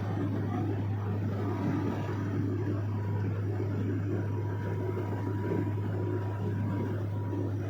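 Small propeller airplane droning steadily in the cabin: a constant low hum from the engine and propeller, with rushing noise over it.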